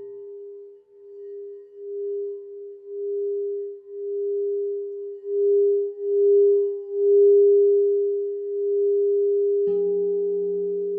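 Crystal singing bowl sounding one steady, pure tone that swells and fades about once a second and grows louder. Near the end a second, lower-pitched bowl is struck and rings along with it.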